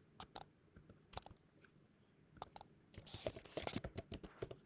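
Faint, scattered small clicks and ticks, sparse at first and coming more often in the last second and a half.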